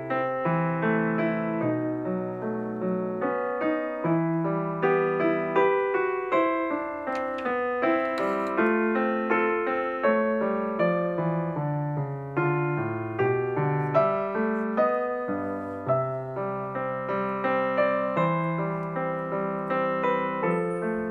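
Background piano music: a gentle, steady run of notes, each struck and fading.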